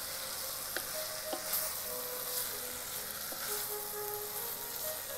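Onion, tomato and spice masala sizzling steadily as it fries in an Instant Pot's stainless steel inner pot, stirred with a wooden spatula that gives a few light scrapes and taps against the pot.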